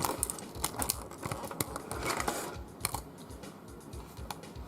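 Irregular light clicks and taps of small hardware parts being handled.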